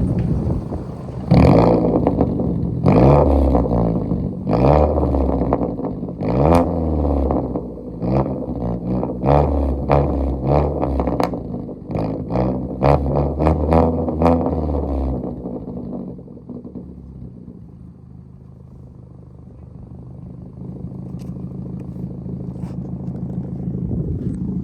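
Straight-piped 2016 Ford Focus SE exhaust, with no muffler or resonator, revved in a quick series of short blips with sharp cracks between them. It then drops back to a steady idle for the last several seconds.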